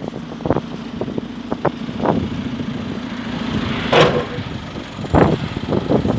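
JCB 3CX backhoe loader's diesel engine running, with sharp metallic knocks about once a second and a louder, hissing burst about four seconds in.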